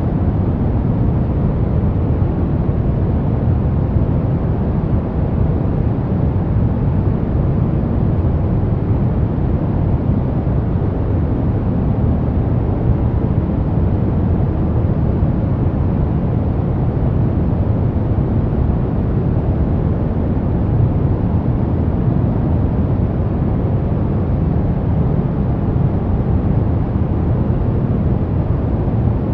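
Steady pink noise, an even, unchanging hiss strongest in the low end.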